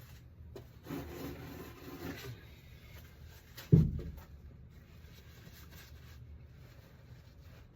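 Rubbing and scuffling handling noises, with a single sharp knock near the middle: parts and tools being handled and set down during an oil change.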